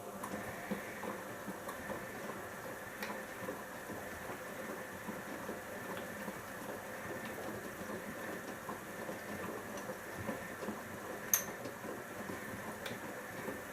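Siemens iQ front-loading washing machine's drum tumbling wet laundry in rinse water during the first rinse, a steady sloshing and crackling that starts at once, with one sharp click about eleven seconds in.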